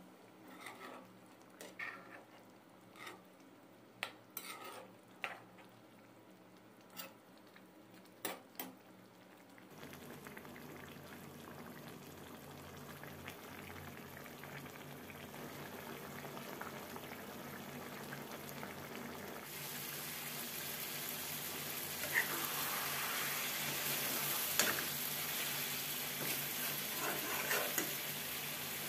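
Metal ladle stirring and scraping chicken in masala gravy in a metal pan, with scattered clicks and knocks for the first ten seconds. Then the gravy sizzles and bubbles with a steady hiss that grows louder from about twenty seconds in, with a few pops.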